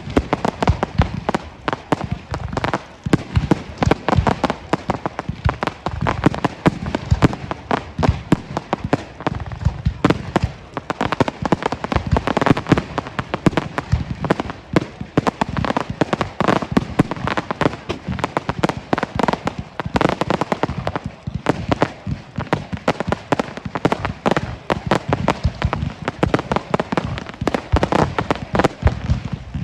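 Fireworks display: a dense, continuous barrage of rapid bangs and crackles, many per second.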